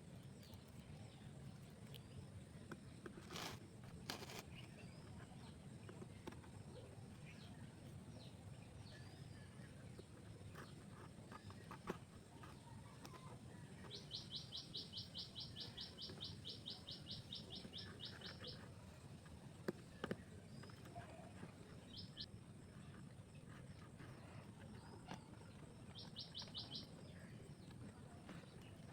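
Faint bird calls: scattered chirps, and a fast, even trill of rapid notes lasting about four seconds midway through, repeated briefly twice later, over a low, even rumble.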